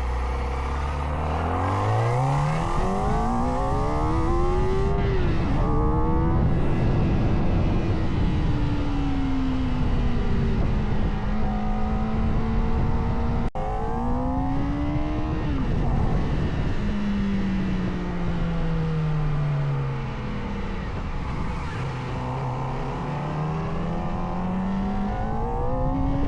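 Kawasaki ZX-4R's inline-four engine on a ride, revving up through the gears with sharp pitch drops at each shift, then easing off and pulling again, over heavy wind noise. The audio cuts out for an instant about halfway through.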